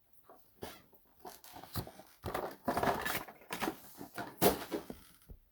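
Foil trading-card packs and cards being handled: irregular crinkling, rustling and small clicks, loudest about two to three seconds in.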